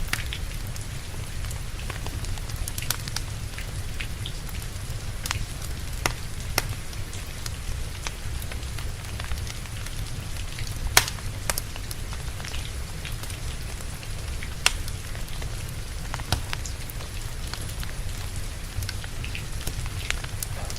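Steady rain mixed with a wood fire crackling, with scattered sharp pops over a constant low rumble; the loudest pop comes about eleven seconds in.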